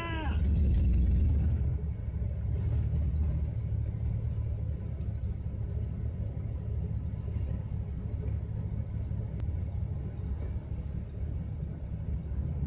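Vehicle engine idling, a steady low rumble heard from inside the cabin, a little louder for about the first second and a half.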